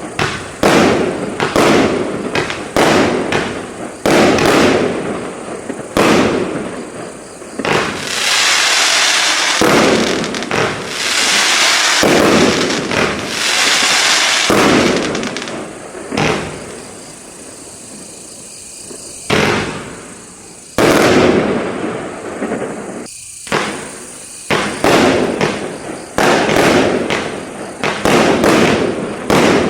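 Firework cake (streetbox) firing a long sequence of shots, each a sharp bang with a fading tail. A denser, hissing stretch comes about a third of the way in, then a short lull, and the shots pick up again a little after two-thirds of the way through.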